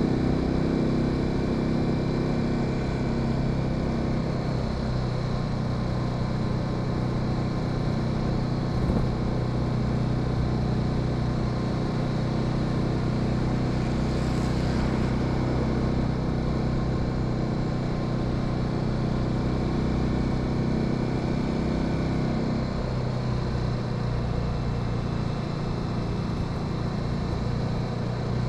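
Honda Sahara 300 motorcycle engine running at a steady cruise, with a steady hiss of wind and road noise over it; the engine note thins a little about 22 seconds in as the load eases.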